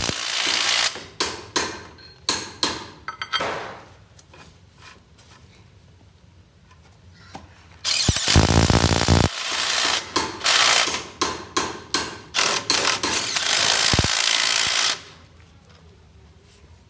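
Repeated bursts of a power tool working on a loader wheel, with sharp strikes on metal between them. There is a quieter pause in the middle.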